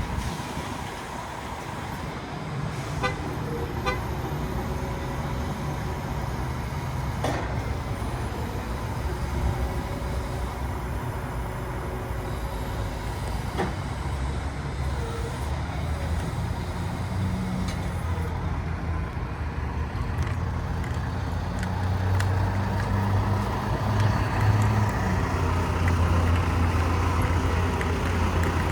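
Heavy diesel engine of a Mack Granite roll-off truck running steadily, with a low rumble that grows louder about three quarters of the way through. A few sharp clicks are heard in the first half.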